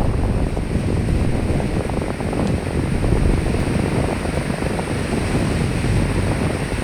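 A strong gust of wind, a loud low rushing that rises and falls unevenly, over a steady hiss of rain; it comes in suddenly and drops away suddenly at the end.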